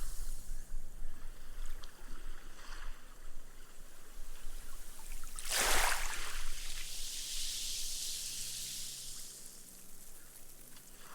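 Small gentle sea wave lapping onto a sandy shore: a soft splash about halfway through, then the long hiss of its foam fizzing and soaking into the sand, fading away.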